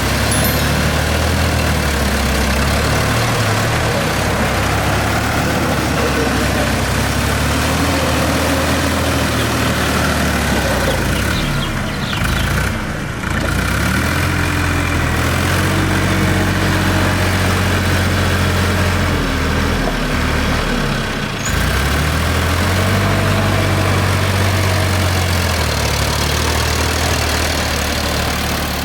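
Mahindra Arjun Novo 605 DI 4WD tractor's diesel engine working under load as it pulls a trolley through mud. The engine note shifts in pitch and dips briefly twice, about a third of the way in and again about two thirds in.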